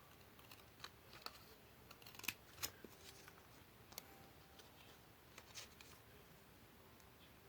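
Faint, scattered clicks and light handling sounds of paper and craft tools being worked by hand, the two sharpest clicks coming close together about two and a half seconds in.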